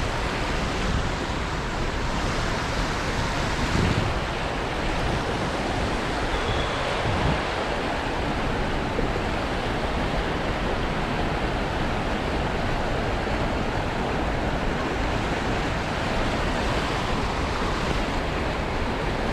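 Water of a small trout river rushing steadily over shallow riffles, a constant even rush.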